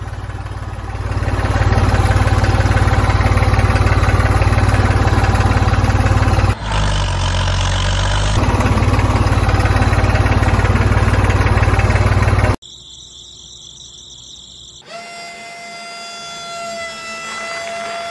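Tractor engine running steadily with a fast low putter, cutting off abruptly about two-thirds of the way through. Near the end a steady high-pitched whine sets in.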